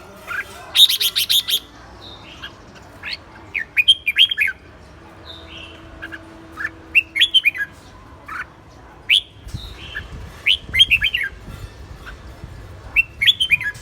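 A bird chirping in short clusters of quick, sharp chirps, repeated every second or two.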